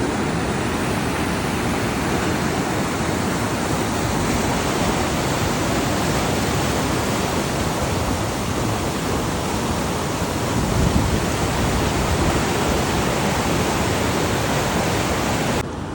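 Floodwater rushing through a flooded wash, a loud steady rush with no let-up, dropping abruptly just before the end.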